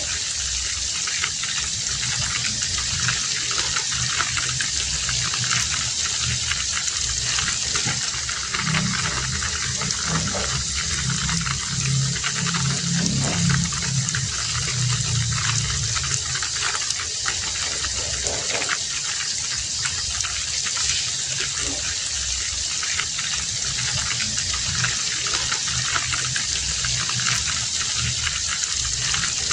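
Heavy rain falling steadily, an even hiss of water. A low hum swells and fades in the middle.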